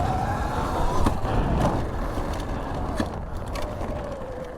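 Sur-Ron electric dirt bike's motor whining, rising in pitch about a second in and then falling away as the bike slows, over a steady low rush of wind. A few sharp knocks come through, the loudest about three seconds in.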